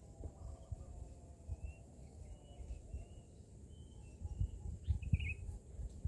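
Faint short bird chirps, several scattered ones with a brighter cluster about five seconds in, over a low rumbling outdoor noise with soft irregular thumps.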